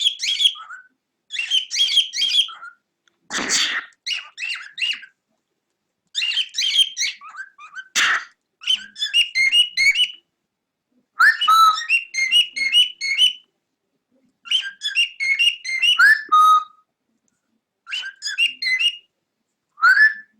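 Cockatiel whistling and chattering in short phrases of rapid high chirps, each about a second long, with pauses between them. A harsher, noisier call comes about three and a half seconds in.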